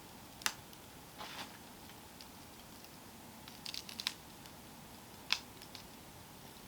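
Campfire crackling: scattered sharp pops and snaps of burning wood, one about half a second in, small clusters near the one- and four-second marks and a loud single pop past five seconds, over a faint steady hiss.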